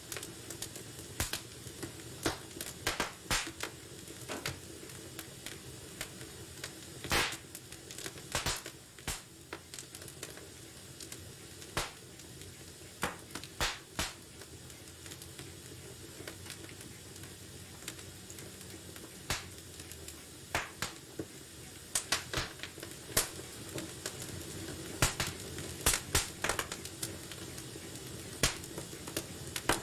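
Wood fire crackling in a fireplace: irregular sharp pops and snaps over a steady low hiss of burning, with quieter stretches in the middle.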